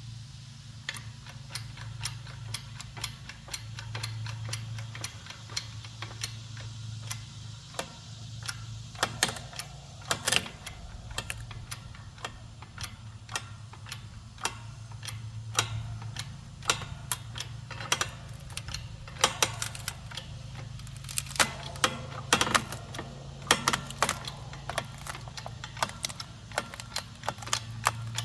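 Hand-pumped hydraulic log splitter at work: irregular sharp clicks and cracks from the pumping mechanism and the wood being forced apart, sparse at first and coming thicker in the second half. A steady low hum runs underneath.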